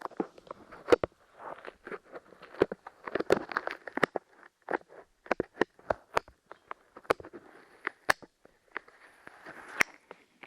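Light clay pressed and pulled on a microphone's ears, giving sticky crackling with many irregular sharp clicks.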